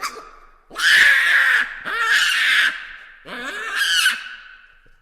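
Baboons calling: three loud, harsh calls of about a second each, one after another.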